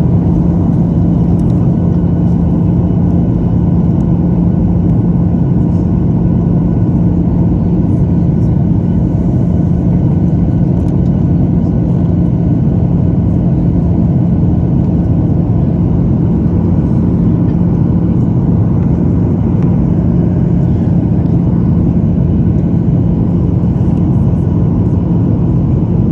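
Boeing 737-900ER cabin noise on descent: a steady roar of the CFM56-7B engines and airflow, with a steady low hum under it.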